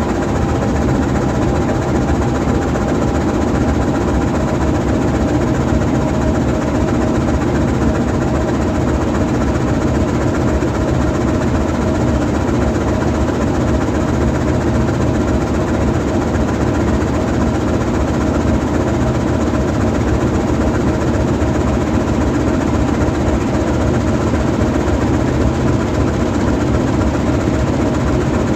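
GE U20C diesel-electric locomotive's 12-cylinder FDL diesel engine idling steadily.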